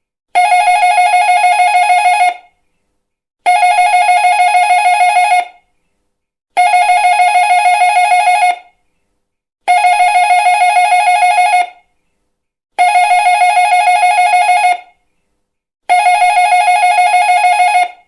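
Electric doorbell ringing in six bursts of about two seconds each, about a second apart, each a fast trilling ring.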